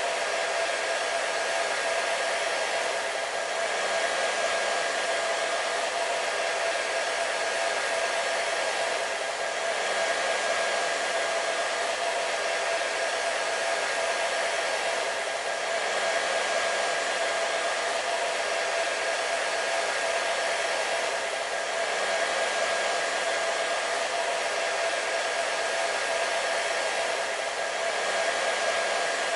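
Hair dryer running steadily: an even whooshing airflow with a steady motor whine on top. It swells faintly about every six seconds.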